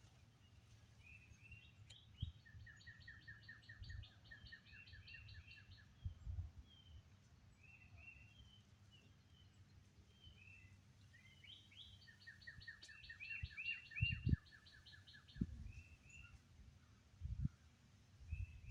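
Several wild birds singing. Short chirps run throughout, and twice a fast, even trill of repeated notes lasts a couple of seconds. A few brief low thumps sound in the second half.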